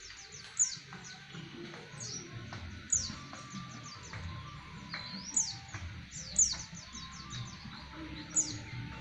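Pleci (white-eye) singing its rolling song: loud, high, falling notes about every second or two, each running into a quick string of fainter chirps.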